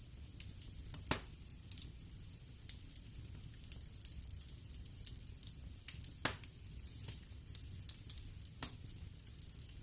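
Wood fire burning in a fireplace: irregular sharp crackles and pops over a steady low rumble of the flames, with louder pops about a second in, at about six seconds and near the end.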